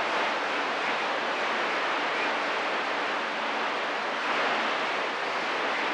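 Steady hiss of CB radio static from an open receiver between transmissions, with no one keyed up on the channel.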